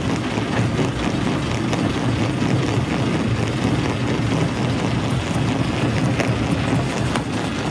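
Primary rock crusher running with a steady heavy rumble as it breaks rock, with a few sharp knocks of stone near the end.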